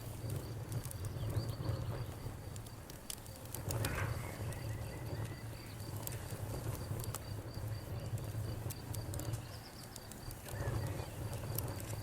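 Campfire burning: sharp crackles and pops of burning wood over a low rumble from the flames. An insect chirps in a fast, evenly pulsed high series in the background throughout.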